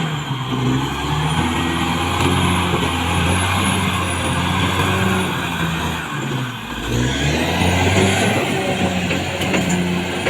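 Caterpillar D6R XL bulldozer's diesel engine working under load, its pitch rising and falling. It dips briefly about six and a half seconds in and picks up again, with a faint high whine over it.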